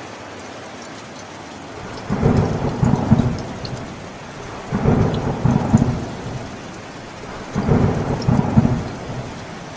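Steady rain with three rolls of thunder, each lasting about a second and a half: the first about two seconds in, the next two about three seconds apart.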